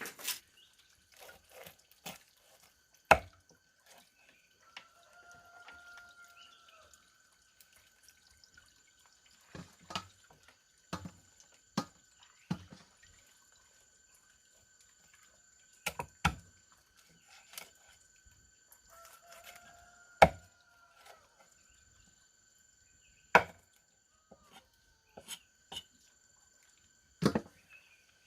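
Scattered sharp knocks and taps, one to three seconds apart, over a faint steady high-pitched hum. Two short whistled tones that rise and fall come about five seconds in and again near twenty seconds.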